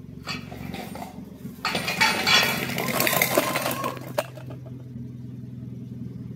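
Toyota Calya's engine running at idle through an aftermarket racing muffler, a steady low hum. About two seconds in, a loud, harsh noisy burst lasts about two and a half seconds.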